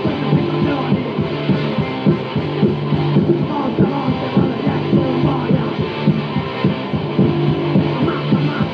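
Punk rock band playing on an early-1980s demo recording: electric guitar, bass and drums at a steady beat.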